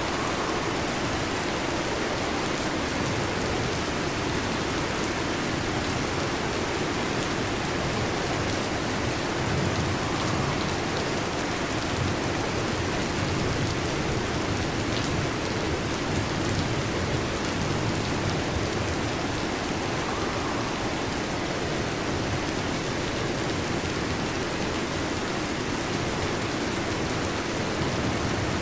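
Heavy rain pelting a metal roof in a steady, dense patter.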